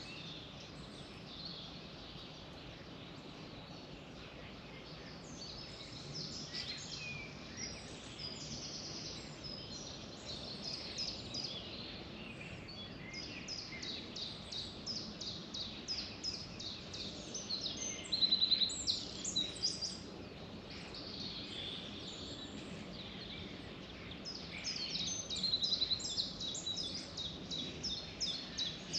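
Songbirds chirping and trilling in quick runs of high notes, with louder bursts about two-thirds of the way in and again near the end, over a steady background hiss of outdoor noise.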